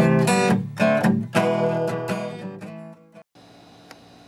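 Acoustic guitar strummed in a blues song, the chords dying away about three seconds in. Then a sudden cut to quiet room hum.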